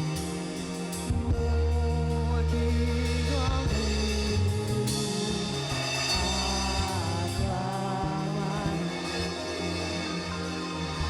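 Church band playing gospel music, with drums, a deep sustained bass line and a voice singing.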